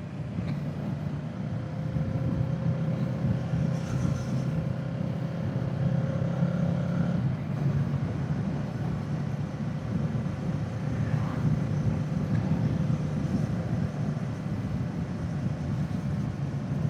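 Kawasaki Z650's parallel-twin engine running at fairly steady revs as the motorcycle is ridden along.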